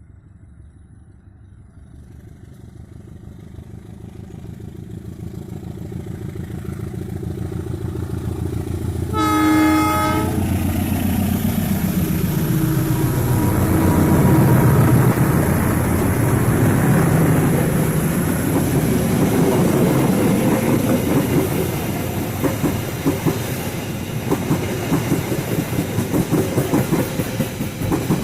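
A diesel locomotive hauling the KA Sawunggalih passenger train approaches, growing louder, and sounds one short horn blast. As the locomotive passes, its engine note drops in pitch. The carriages follow with a fast, steady clickety-clack of wheels over rail joints.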